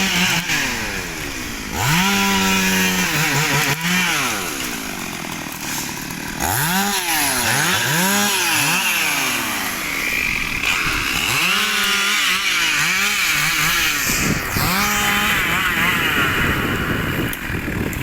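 Two-stroke chainsaw revving up to high speed and dropping back again and again.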